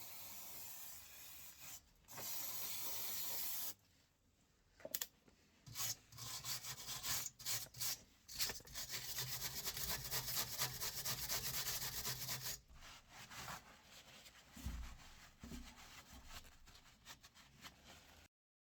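Abrasive scrubbing on the exhaust pipe, cleaning the metal around the leaking hole to get it ready for repair paste. The scrubbing comes in several bursts of rapid strokes with short gaps between them, and the longest run is in the middle.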